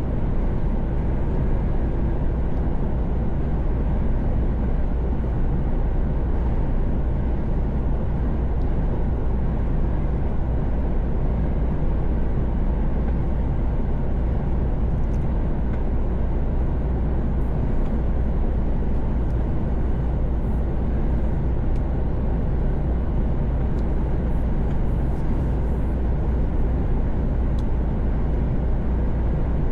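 Steady low drone of a Mercedes Actros truck cruising on the motorway, engine and tyre noise heard from inside the cab.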